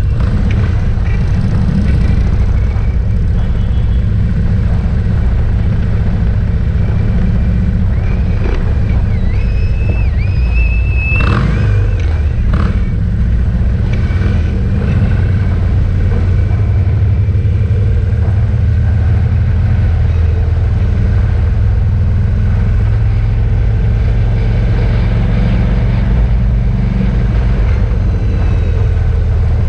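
Loud, steady rumble of many motorcycle engines riding past. A brief, wavering high whistle comes in about ten seconds in.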